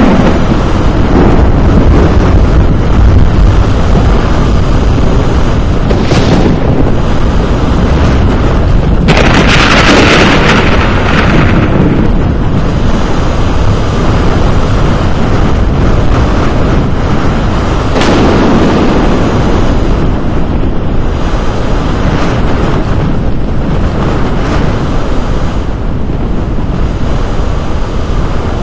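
Strong storm wind buffeting the microphone: a loud, continuous rumbling noise, with louder gusts about nine seconds in and again about eighteen seconds in.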